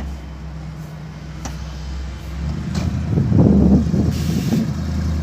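A car engine running at low revs with a steady low hum, growing louder about three seconds in as it comes closer. A short hiss follows about a second later.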